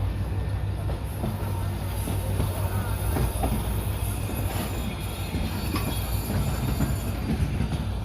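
Passenger train running on the rails: a steady low drone with faint, short high-pitched wheel squeals now and then.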